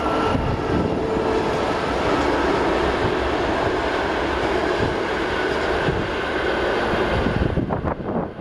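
Passenger train crossing a steel girder railway bridge behind a Škoda class 163 electric locomotive: a steady, loud rumble of wheels on rails and bridge, easing off near the end as the last coaches move away.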